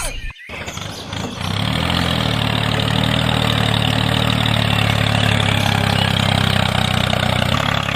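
An engine starting up and then idling steadily, fading out near the end.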